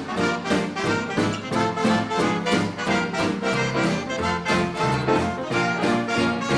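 Big band dance orchestra playing a 1930s-style number, with brass and reeds over a steady beat.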